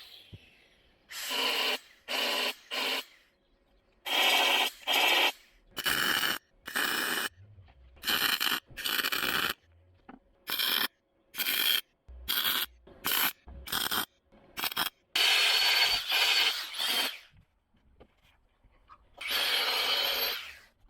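Welding on steel rust-repair patch panels in short tack and stitch bursts: about twenty bursts, mostly under a second each with silence between, then two longer runs of a second or two near the end.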